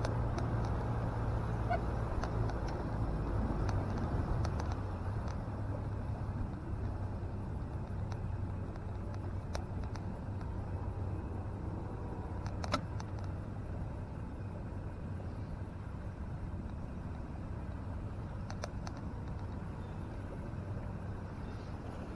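Boat outboard motor running steadily under way, with water and wind rush; its note drops a little and gets quieter about four to five seconds in.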